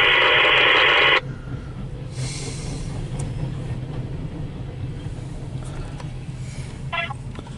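A scanner radio transmission cuts off suddenly about a second in, leaving a steady low rumble of a train rolling along the track.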